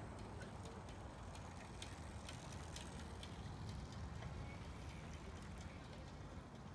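Faint steady low rumble of real-world ambience, with many light clicks and ticks scattered over it, most of them in the middle stretch.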